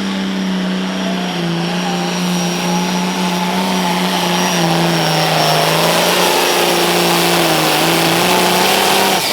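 Limited Pro Stock pulling tractor's diesel engine running flat out under load while pulling the sled, with a steady high whine over it. The engine's pitch sags a little about a second in and then holds, and the sound cuts off abruptly at the very end.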